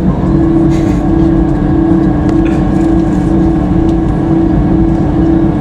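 Airbus A320-214 cabin noise with its CFM56 engines running: a steady low rumble under a constant hum that pulses slightly about twice a second, with faint higher whines and a few light clicks.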